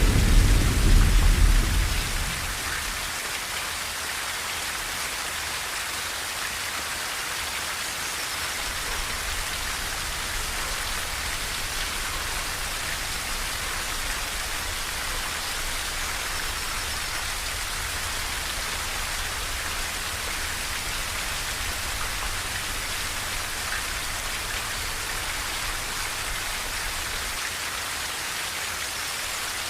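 Steady rain on a tin roof, an even hiss of drops. A low thunder rumble dies away over the first two seconds.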